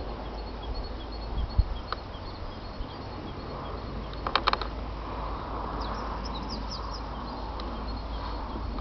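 Small birds calling faintly: thin repeated chirps and a few short falling high notes, over a steady low rumble. A quick cluster of sharp clicks comes about four and a half seconds in.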